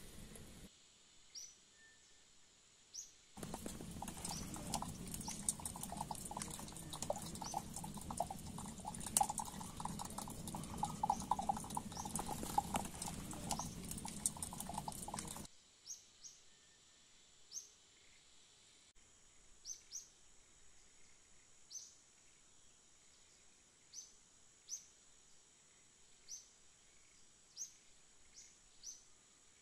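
A dense run of clicks and clatter lasting about twelve seconds, then stopping suddenly. After it, high, short chirps about once a second over quiet rural ambience.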